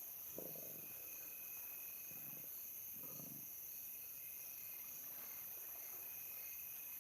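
Crickets chirring steadily at night, with four short, low growls from lions feeding on a kill.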